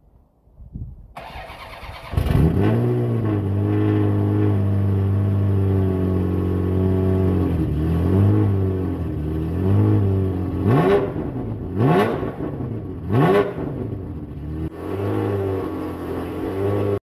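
Ferrari 348's V8 started up: it cranks for a couple of seconds, catches with a flare of revs, then idles with the pitch sagging and rising a few times. Three quick throttle blips come in the middle, and the sound cuts off suddenly near the end.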